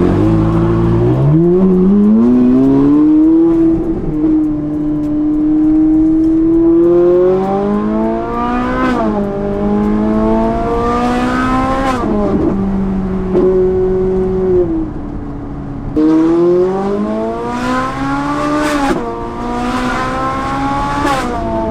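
Straight-piped Ferrari 458 Italia's V8 pulling away and accelerating. The engine note climbs and drops back sharply with each upshift, several times, holding steady between pulls.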